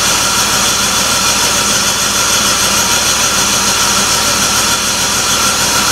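2004 BMW 325xi's 2.5-litre inline-six engine turning over steadily during a compression test, with a gauge fitted in one spark-plug hole building to about 120 psi.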